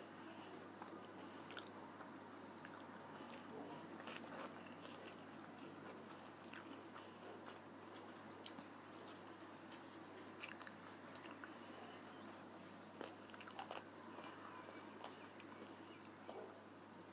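Faint sounds of a person biting and chewing fried chicken wings, with scattered small crunches and clicks.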